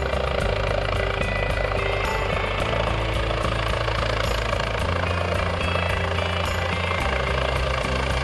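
Medevac helicopter coming in to land, its rotor and turbine running loud and steady.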